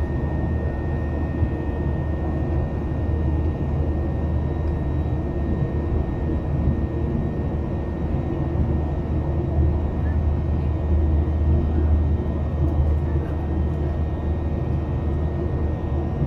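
Boeing 737-800's CFM56-7B engines heard inside the passenger cabin: a steady low drone and rumble with a faint thin whine above it, holding an even level.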